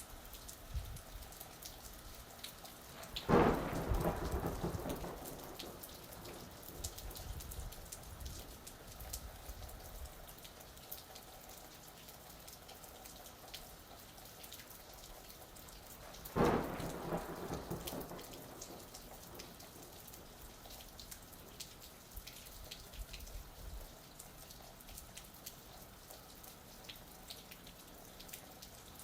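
Steady rain with pattering drops, and two claps of thunder, one about three seconds in and another about halfway through, each breaking suddenly and rumbling away over a couple of seconds.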